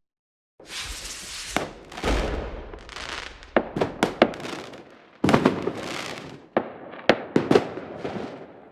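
Aerial fireworks going off: a rapid run of sharp bangs and cracks over a rushing, crackling hiss, starting after a brief silence.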